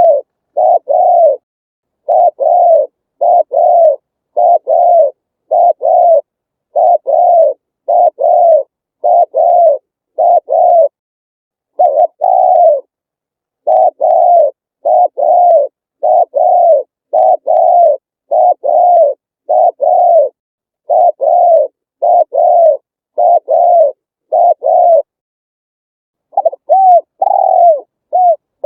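Spotted dove cooing over and over: short falling coo notes, mostly in pairs, about one pair a second, with a pause of about a second and a half near the end.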